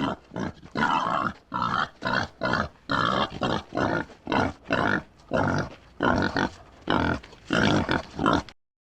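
Domestic pig grunting over and over, in short grunts about two a second, stopping just before the end.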